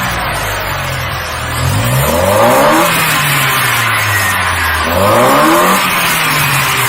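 Car engine with a high-flow aftermarket air filter idling and revved twice in quick blips, about two seconds in and again about five seconds in, each rise in pitch falling back to idle, with loud intake hiss.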